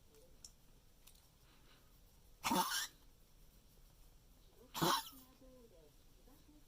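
An elderly smooth-coat Chihuahua coughing twice, two short harsh coughs a little over two seconds apart. It is a recurring coughing attack of the dog's tracheal collapse.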